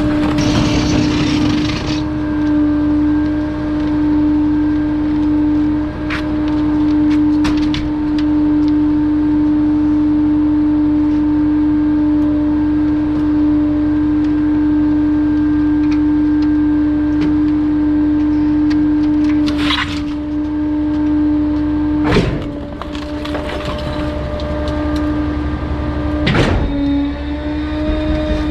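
Bulky-waste refuse truck's hydraulic system humming on one steady tone over a low rumble, with a few sharp clanks in the last third as the load is worked.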